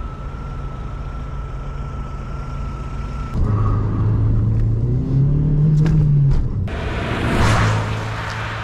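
Opel Vectra B's 1.8-litre 16-valve four-cylinder petrol engine heard in short cut clips: running steadily with a thin high whine over it, then revving up and back down about five seconds in, then a loud rush of wind and road noise at speed near the end.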